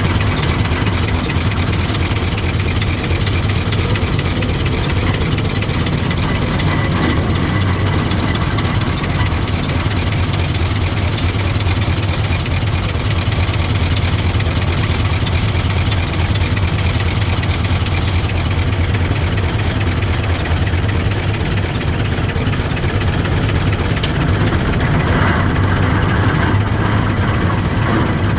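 The engine of a 1923 Avery 25-50 tractor running steadily under way, with a low, even beat and mechanical clatter.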